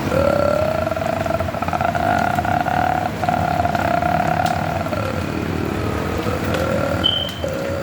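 Steady rain with a motor droning over it; the drone's pitch rises at the start, sags and dips about two-thirds of the way through, then climbs again at the end.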